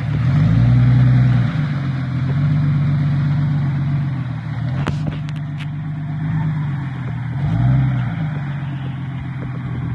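A Jeep's engine driving through deep floodwater, its revs rising and falling several times as it pulls away.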